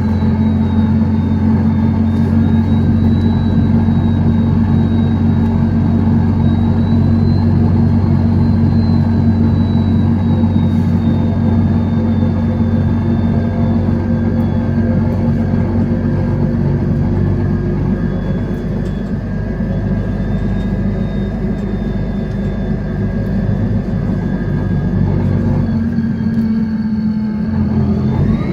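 Mercedes-Benz bus engine running with a steady low drone, with a thin high whine above it that starts to rise near the end.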